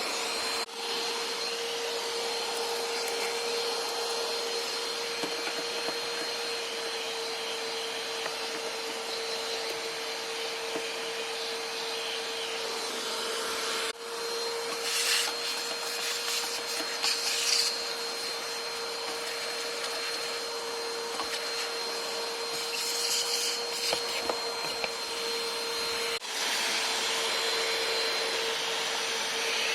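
Bagless vacuum cleaner running steadily with a constant whine while vacuuming dirt off an ATV. A few short scratchy bursts come from the nozzle working over the surface.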